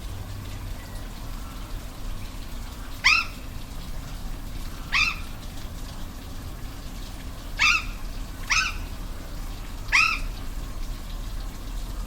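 An animal's short call, five times at uneven intervals, each brief with a quick bend in pitch, over the steady noise of a waterfall.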